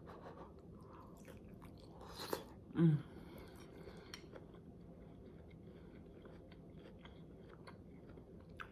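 A person chewing a bite of a Philly cheesesteak stuffed bell pepper: faint chewing and mouth clicks, with one louder crunch about two seconds in and a short hummed "mm" about three seconds in.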